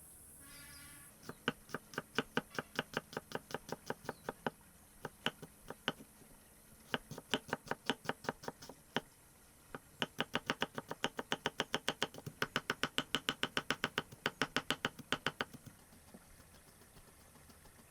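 Knife chopping fast on a cutting board, about five or six strokes a second, in several runs with short breaks between them.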